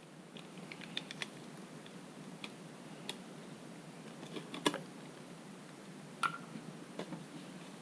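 Irregular light clicks and taps of objects being handled, with one sharper knock a little past halfway and another short click with a brief ring soon after.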